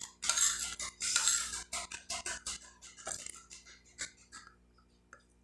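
Close-up chewing and mouth sounds of someone eating stewed chicken and rice: a dense run of short crackly smacks for about three seconds, thinning out and going quiet near the end.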